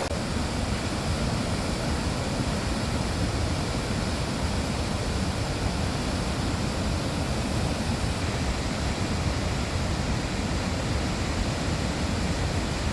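Steady rush of a large river waterfall, Tännforsen, an even wash of water noise heavy in the low end that does not change.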